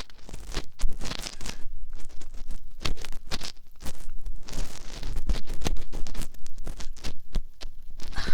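Binaural ASMR ear cleaning: an ear pick scratching and scraping close in the ear of a dummy-head microphone, in dense, irregular strokes.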